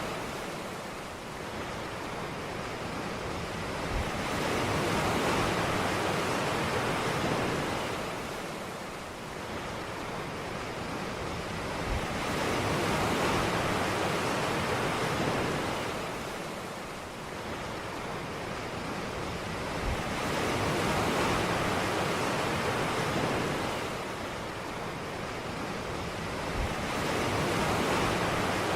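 Ocean waves breaking and washing up a beach: a steady rush of surf that swells and falls back about every eight seconds. A soft low thud comes as each swell begins.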